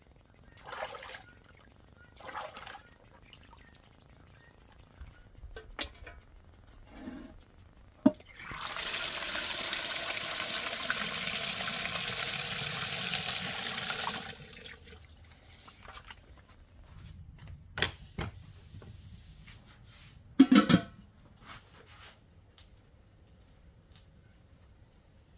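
Water running into a container for about five and a half seconds, starting and stopping abruptly, among scattered knocks and clinks of handled objects; the loudest knocks come as a short cluster about twenty seconds in.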